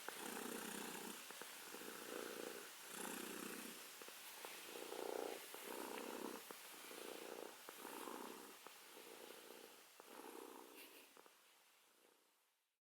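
Domestic cat purring, a faint, even rhythm of about one purr cycle per second that fades out near the end.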